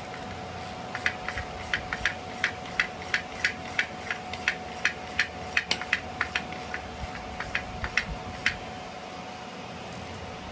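Hand ratchet clicking in a steady rhythm, about three clicks a second, as a transmission-to-engine bolt is run in; the clicking stops a couple of seconds before the end. A faint steady hum lies underneath.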